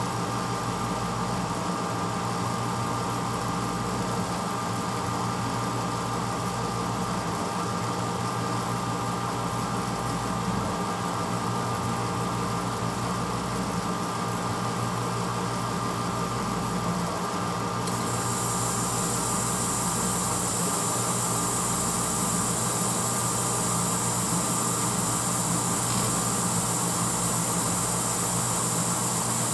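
1986 Hotpoint Potwasher dishwasher running mid-cycle with a steady hum. About eighteen seconds in, a brighter hiss joins it and stays.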